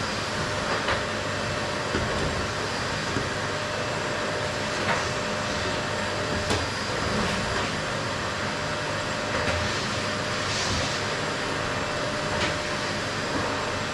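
Qilive vacuum cleaner running steadily over a wooden floor: a constant rushing drone with a steady whine, broken by a few brief clicks and knocks.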